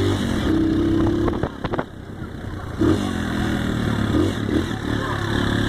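Motor vehicle engine running and revving, its pitch rising and falling, with a brief clatter of knocks a little past a second in and a short drop in loudness around two seconds in.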